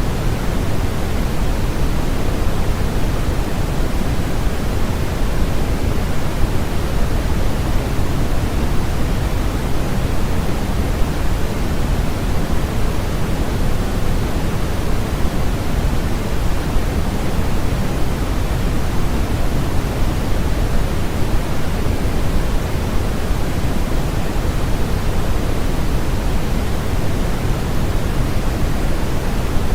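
Steady electronically generated noise played as a sleep sound: an even, unchanging rushing hiss with no tones or breaks, weighted toward the low end, so it sounds deeper than bright white noise.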